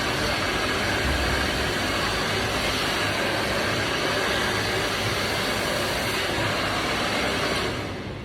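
Handheld hair dryer blowing at a steady rush of air, then switched off and winding down near the end.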